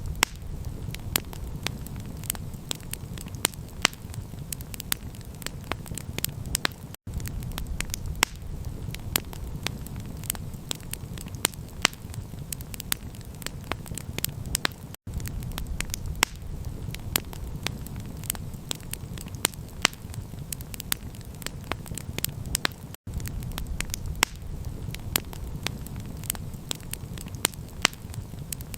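Campfire crackling, with many sharp pops and snaps over a steady low rumble. The sound drops out for an instant three times, about every eight seconds.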